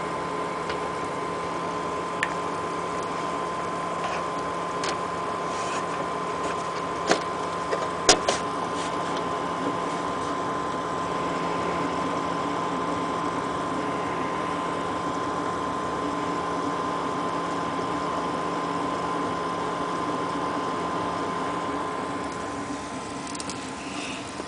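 XSPC water-cooling pump in a PC loop running with a steady whine and hum, an unusual noise that turned out to come from its tubes being connected to the wrong ports. A few sharp clicks sound about a third of the way in.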